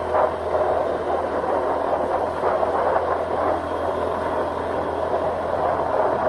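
Steady ride noise from a Honda Scoopy scooter at cruising speed: wind rushing over the microphone and tyre noise, with the small single-cylinder engine humming low underneath.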